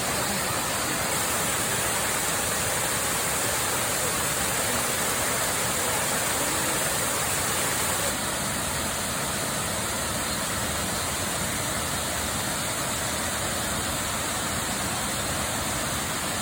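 Steady rush of a waterfall: constant, even noise of falling water with no pauses, dropping slightly in level about eight seconds in.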